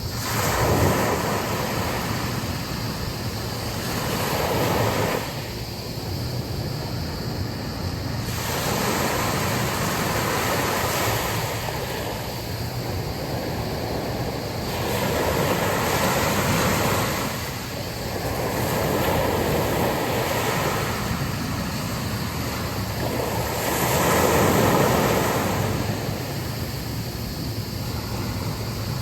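Sea waves washing onto a beach, swelling and falling back every few seconds, with wind blowing.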